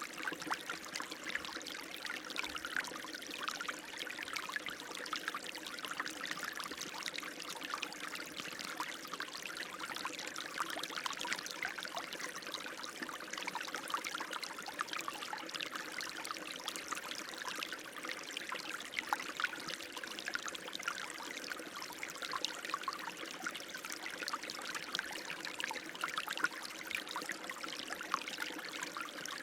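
Running water flowing without a break, a steady splashing trickle.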